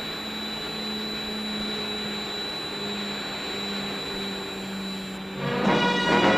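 Steady drone of an aircraft's engines in flight, a constant hum and hiss. About five seconds in, orchestral music comes in over it.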